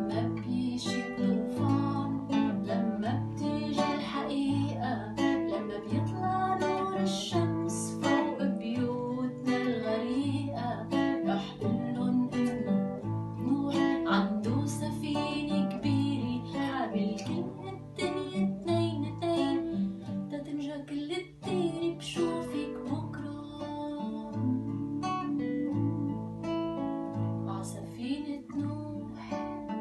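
Strummed acoustic guitar with a woman singing over it.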